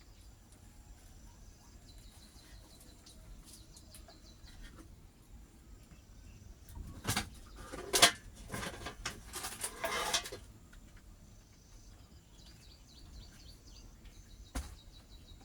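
Faint, rapid high chirping of small birds, with a few louder rough bursts in the middle, the loudest about eight seconds in.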